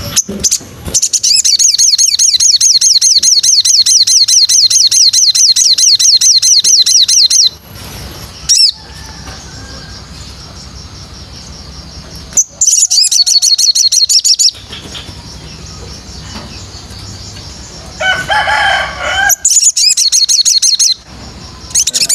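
Songbird singing: long runs of rapid, evenly repeated high notes, broken by pauses, with a short burst of lower warbled notes about eighteen seconds in, played as song material for training white-rumped shamas.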